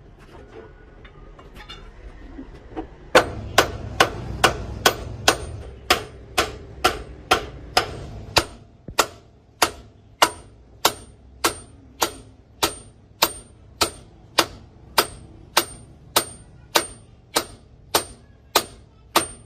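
Hammer blows on metal in a steady rhythm, each ringing brightly. They start about three seconds in at around three a second and slow to under two a second from about halfway through, with a low rumble under the first few seconds.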